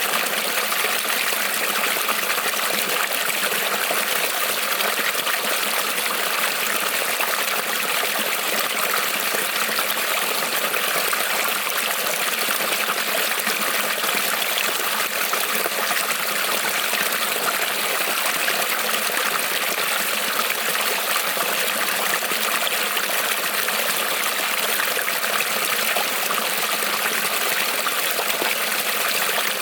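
A small creek rippling and trickling over stones, a steady, even rush of flowing water.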